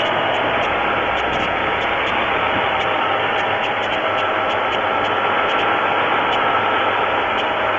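GM 3.4-litre V6 engine of a 2002 Pontiac Grand Am running steadily.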